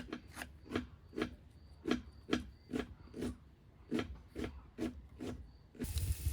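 Knife chopping cabbage on a wooden cutting board in even strokes, about two a second. Near the end the chopping stops and a steady hiss takes over.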